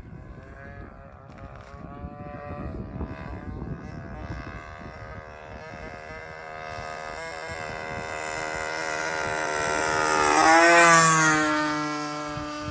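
Small 20cc gasoline engine of an RC model P-51 in flight, getting steadily louder as it approaches. It passes closest about eleven seconds in, where its pitch drops, then fades. Gusts of wind rumble on the microphone in the first few seconds.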